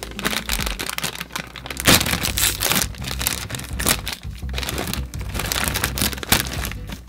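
Background music with a packaged snack being handled: many short crinkling and cracking sounds, the sharpest about two seconds in and again near the end.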